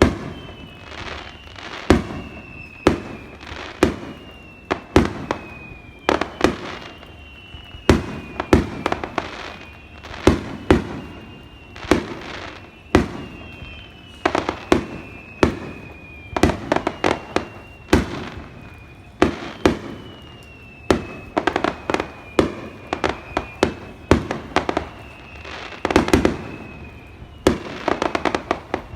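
Fireworks display: aerial shells bursting in a steady barrage, roughly one bang a second. Two stretches of rapid crackling come through the middle and near the end, and a high whistling tone slides down between many of the bursts.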